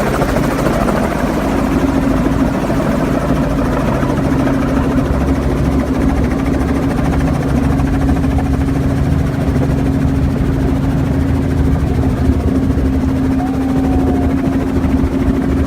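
Helicopter engine and rotor noise heard from inside the cabin: a loud, steady drone with a strong constant hum.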